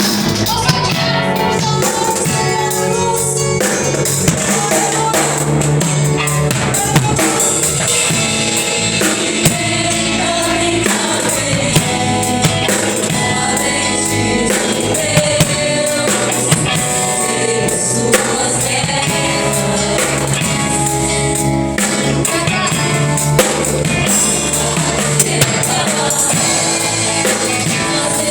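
Gospel praise music: singing over drum kit and tambourine, with a steady beat and regular sharp drum hits.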